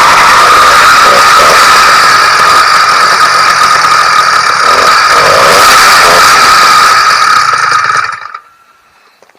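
Freshly ported YD100 two-stroke motorized-bicycle engine running loud and steady on its first break-in run, then cutting off suddenly about eight seconds in.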